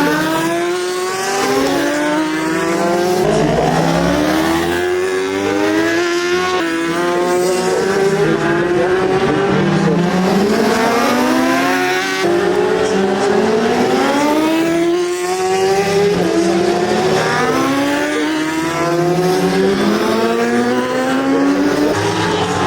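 Racing superbike engines revving hard, each climbing in pitch through a gear, then dropping at the upshift and climbing again. Several bikes' engines overlap.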